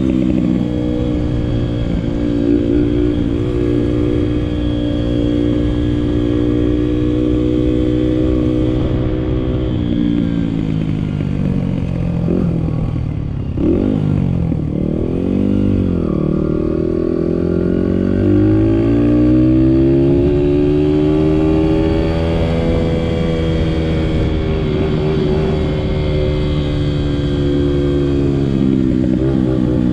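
Honda 50cc dirt bike's small single-cylinder engine running while being ridden. Its pitch holds steady, drops about a third of the way in, dips and climbs quickly a few times around the middle as the throttle is worked, rises again and holds, then falls near the end.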